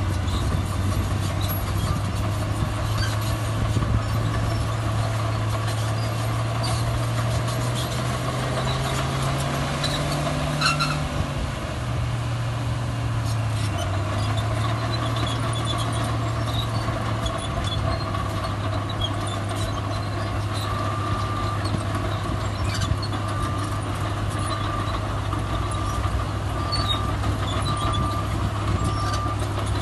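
Heavy diesel earthmoving machinery running steadily, its engine revving up about a third of the way in, then settling back. In the last third, a reversing alarm beeps at a steady pace of about one beep a second.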